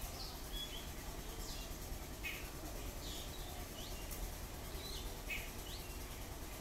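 Birds chirping, short calls about once a second, over a steady low background noise.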